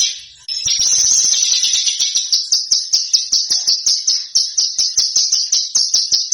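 A small songbird singing a high, fast, dense song with a short break near the start. It then settles into rapid repeated notes, about five a second, which cut off suddenly at the end.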